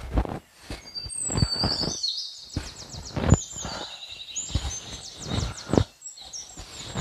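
A wild bird singing a quick run of high chirps and trills, over short, deep whooshing thuds every second or two.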